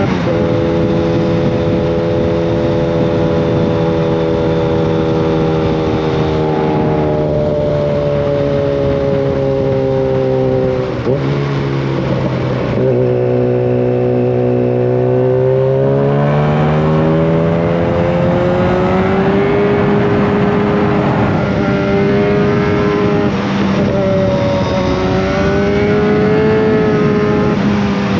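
Yamaha FZ1 Fazer's inline-four engine running through a Mivv GP slip-on exhaust with the dB killer removed, heard while riding. Revs ease down for the first ten seconds or so, with a brief break about eleven seconds in. They hold low for a few seconds, then climb again from about sixteen seconds and waver up and down near the end.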